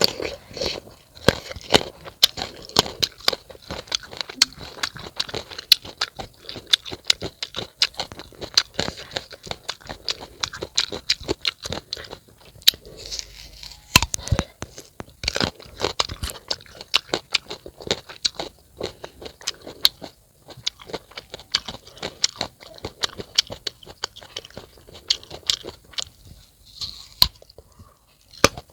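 Close-miked crunching and chewing of raw unripe papaya: a steady run of crisp crunches, with a few louder bites about halfway through and near the end.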